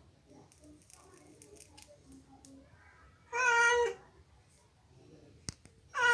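A domestic cat meowing to be let in through a door: one meow about three and a half seconds in and a second starting near the end, with a faint click in between.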